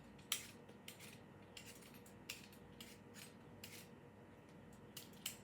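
Faint, scattered clicks and scrapes of kitchen utensils, about six short sharp strokes spread across a few seconds.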